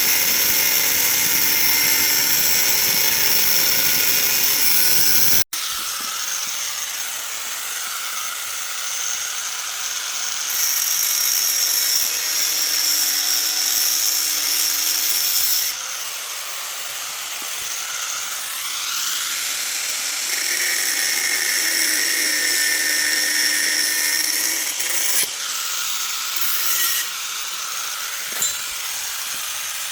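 A power tool running steadily. About five seconds in, the sound cuts off abruptly and a somewhat quieter, continuous tool-on-workpiece noise follows, shifting in pitch every few seconds.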